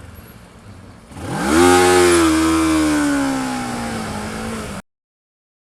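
Motorcycle engine revving: the pitch climbs sharply about a second in, then slowly sinks as the revs drop off, and the sound cuts off abruptly near the end.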